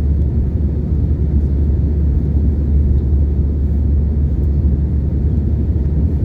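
Steady low drone inside the cabin of an Airbus A320 from its CFM56-5B turbofan engines, even and unchanging, heaviest in the deep bass.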